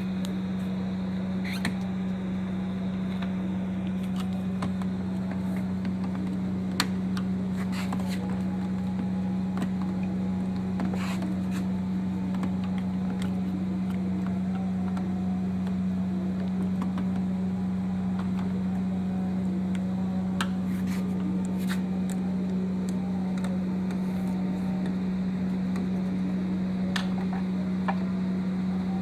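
A steady low hum runs throughout, with scattered light clicks and taps of a screwdriver working on a car door lock.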